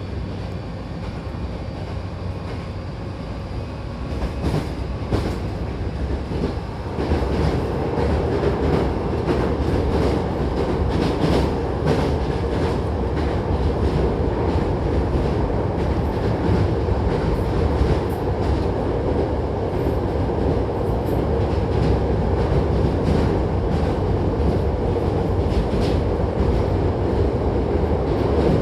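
Hankyu Kyoto Line train running on the rails: a steady rumble of wheels and track with scattered clicks, getting louder about seven seconds in.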